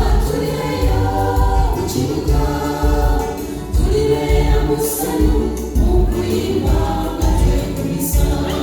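Gospel choir singing together over a steady low beat, with two cymbal crashes, about five and eight seconds in.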